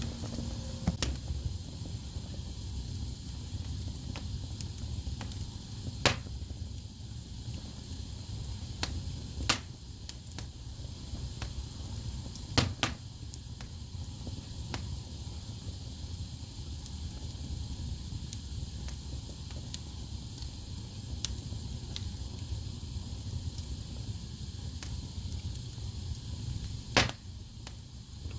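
Wood fire burning in a fireplace: a steady low rumble of flames with scattered crackles and several loud pops of the burning logs.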